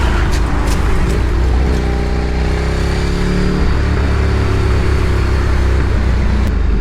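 A road vehicle running, with a heavy steady rumble of engine and road noise. An engine tone stands out for a couple of seconds in the middle.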